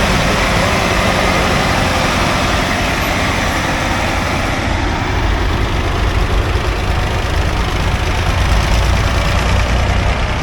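Engines of vintage farm tractors running as they drive past, the low engine note growing stronger about halfway through.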